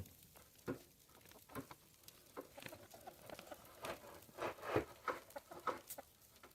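Chickens moving about in their coop, making faint, irregular soft taps.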